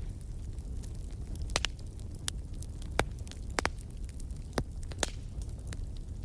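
Wood fire crackling: irregular sharp pops and snaps, about two a second, over a steady low rumble of burning.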